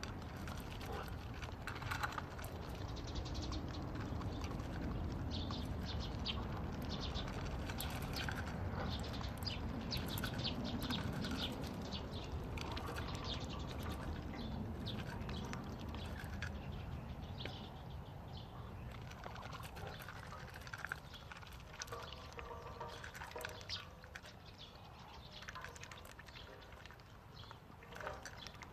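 Animals crunching and chewing corn in quick, irregular clicks, with birds chirping now and then.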